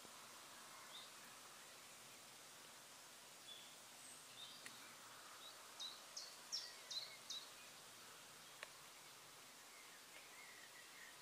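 Near silence: a faint steady outdoor hiss with a small bird's brief high chirps, including a quick run of about six just past the middle, and a single sharp click later on.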